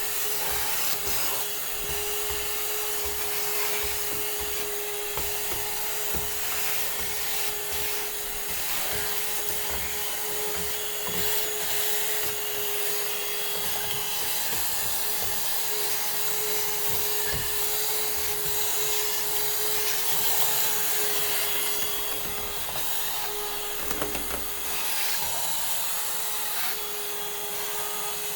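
Vacuum cleaner running steadily with a constant hum, its nozzle rubbing and knocking against the wood while cleaning out the inside of a spinet piano.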